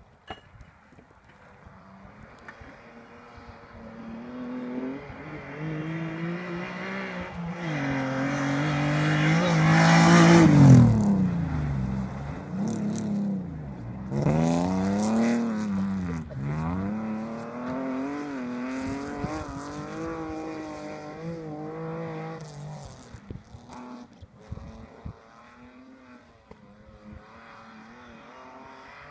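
Alfa Romeo 156 engine at high revs, getting louder as the car approaches and passing close about ten seconds in with a sharp drop in pitch. The revs then rise and fall in quick swells as it drives on, fading into the distance over the last few seconds.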